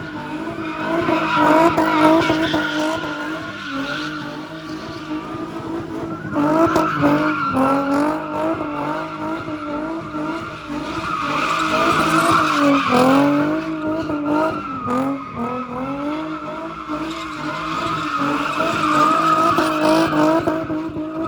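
A car drifting: the engine is held high in the revs, its pitch rising and dipping again and again, over a steady squeal of tyres. The whole sound grows louder and fainter several times as the car comes near and moves away.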